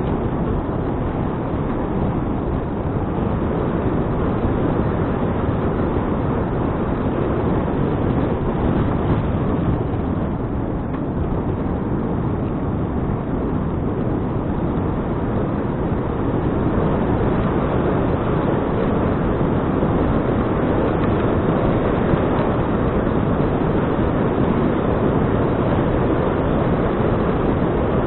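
Steady wind noise rushing over the microphone of a bike-mounted action camera while cycling, a continuous low rumble with no breaks.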